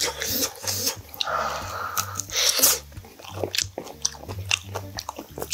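Close-miked chewing and mouth smacks from someone eating grilled pork back ribs, with many short irregular clicks.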